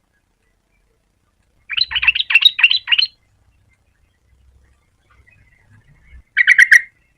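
Yellow-vented bulbul singing: a quick, bubbling phrase of sharp notes about two seconds in, then a shorter phrase near the end.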